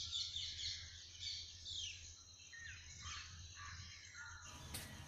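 Small birds chirping and singing outdoors: many short, quick, falling notes, busiest in the first two seconds, over a steady faint low hum. There are a few faint clicks near the end.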